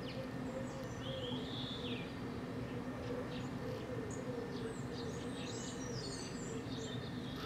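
Small birds chirping and twittering over a steady low hum of outdoor background noise. A gliding call comes about a second in, and the chirping grows busier from about halfway through.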